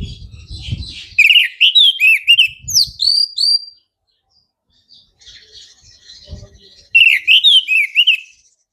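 Orange-headed thrush (anis merah) singing: two loud phrases of quick rising and falling whistled notes, one about a second in and one near the end, with softer twittering between.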